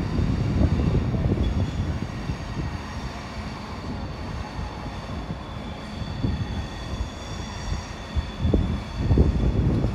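Passenger train rolling slowly over the tracks and points, a steady low rumble with faint high-pitched wheel squeal above it and a few louder low thumps near the end.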